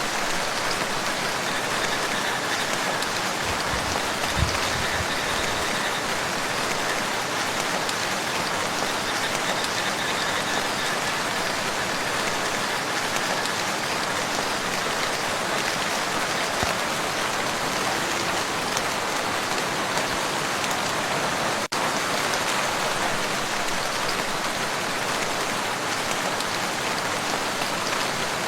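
Steady rain falling on a lake, a dense, even patter of drops on the water with no let-up. A few low thumps come about four seconds in.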